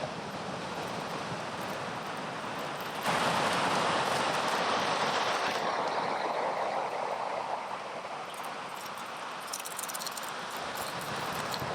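Steady hiss of ocean surf and wind, with a louder rushing swell about three seconds in that slowly fades, and a few faint light ticks near the end.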